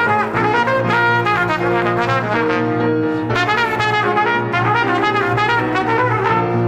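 Salsa music with a brass section of trumpets and trombones playing lines over a steady rhythm section.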